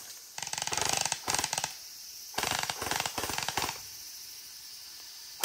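A gel blaster (water bead gun) firing on full auto: two bursts of rapid clicking, each lasting a little over a second.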